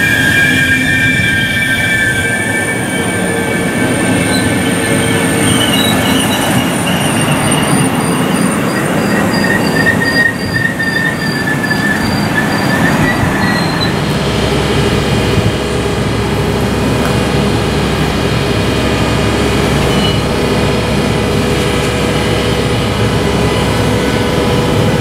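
DB Intercity passenger coaches rolling slowly past, their wheels squealing with several thin high-pitched tones over a steady rolling rumble. About halfway through the squeal gives way to a steadier, lower rolling rumble.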